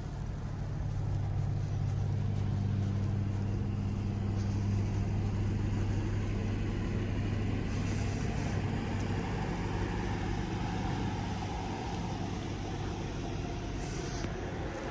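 A motor vehicle's engine running nearby: a steady low hum that is strongest through the first half and eases off in the second.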